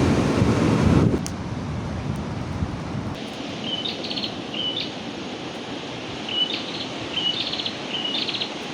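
Wind buffeting the microphone for about a second. Then, over a steady haze of wind, a bird calls six times, each call a short note followed by a quick rattling trill.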